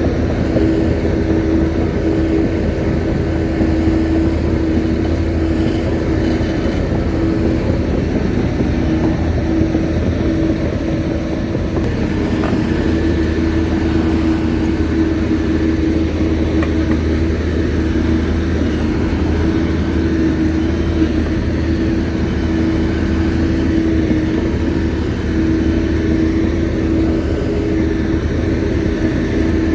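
Shantui bulldozer's diesel engine running steadily under working load, with a constant deep drone and a steady hum.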